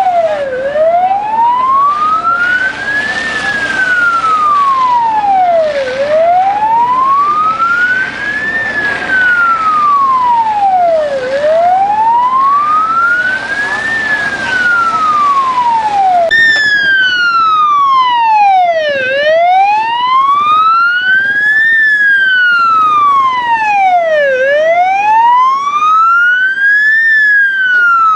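Emergency siren wailing, its pitch rising and falling slowly with each sweep taking about five seconds. About sixteen seconds in there is an abrupt cut, after which the siren sounds cleaner and the background noise underneath it is gone.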